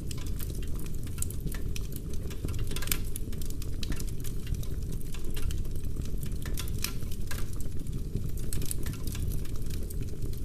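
Wood fire burning in a fireplace: dense, irregular crackling and sharp pops of burning logs over a steady low rumble.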